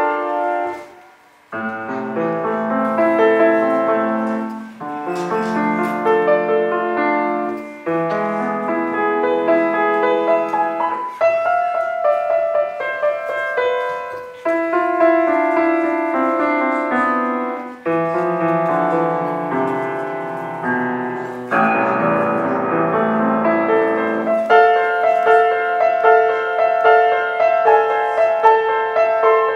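Solo piano playing in phrases of chords and melody, with a brief pause about a second in.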